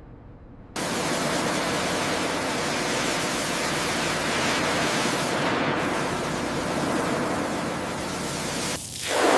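Steady hiss of a high-pressure blast hose working on corroded hull plating, cutting in abruptly about a second in. A louder, lower rush comes in near the end.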